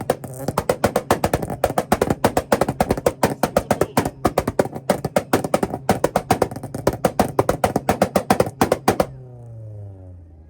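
Red EF-chassis Honda Civic engine held on a two-step launch limiter, popping and banging rapidly, about eight to ten bangs a second. About nine seconds in the popping stops and the revs fall away.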